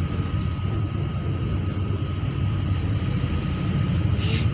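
Steady low rumble of a car driving along the road, with a thin steady whine above it and a brief hiss about four seconds in.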